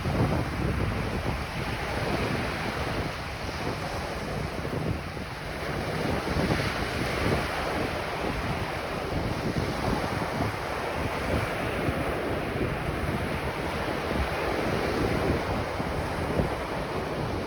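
Ocean surf washing onto a beach, a continuous rush that swells and eases, with wind buffeting the microphone.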